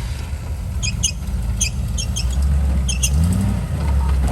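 Rock-crawling off-road truck's engine running under load, revving up and back down about two and a half seconds in. Several short, high squeaks sound over it.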